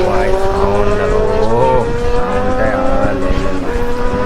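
Motorcycle engine running under steady acceleration, its note rising slowly, with wind and road noise.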